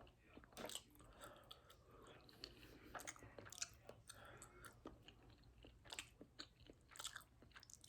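Faint chewing of a mouthful of food, with irregular small mouth clicks throughout.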